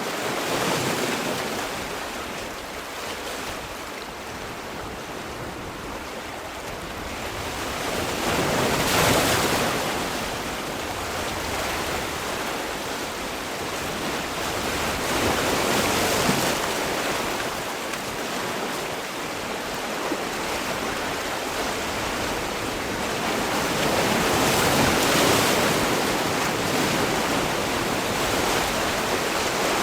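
Sea waves breaking and washing on the shore in a continuous rushing wash. Louder surges swell up every seven or eight seconds as each wave breaks.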